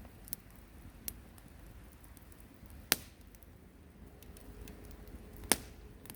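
Wood campfire burning quietly, with occasional sharp crackles and pops from the burning wood, two louder snaps about three and five and a half seconds in.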